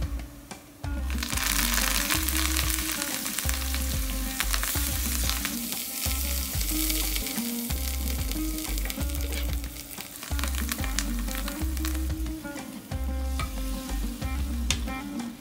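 Chopped garlic sizzling as it fries in a small steel pan, stirred with a spoon. The sizzle flares up loudly about a second in and stays strong, with a few sharp clicks of spoon on pan near the end. Background music with a steady beat runs underneath.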